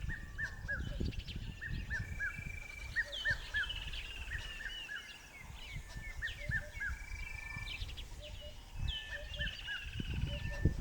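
Several birds calling: short arched whistled notes repeated in groups of three or four, with higher falling notes over them. A low rumble runs underneath.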